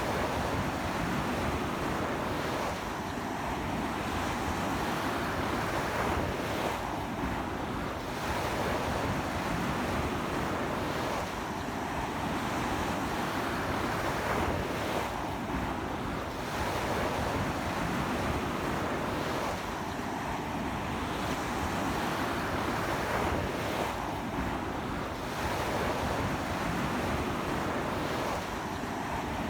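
Ocean surf breaking and washing up a beach in strong wind, a steady rush that swells every few seconds, with wind buffeting the microphone.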